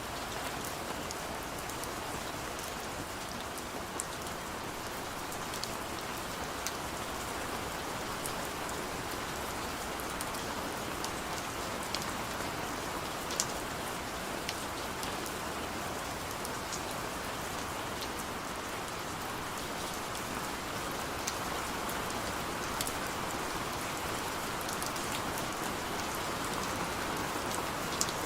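Heavy rain falling steadily, an even hiss with scattered sharp drips and ticks of drops striking a hard surface.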